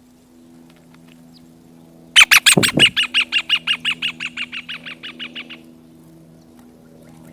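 A bird calling a rapid series of about twenty sharp repeated notes, loudest at the start and fading, slowing slightly over about three seconds.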